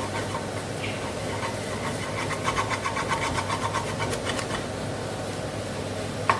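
Kitchen extractor fan running with a steady hum. In the middle, about two seconds of rapid rhythmic clatter at around five strokes a second, and a sharp knock near the end.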